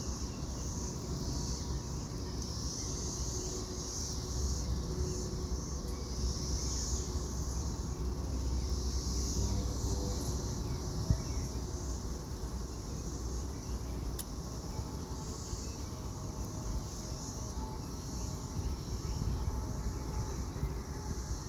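Cicadas buzzing in a high drone that swells and fades every second or two, over a low rumble, with one sharp click about eleven seconds in.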